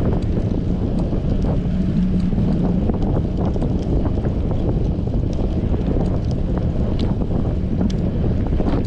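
Strong wind buffeting an action camera's microphone during a bicycle ride: a steady, loud rushing noise with a low hum and a few small ticks scattered through it.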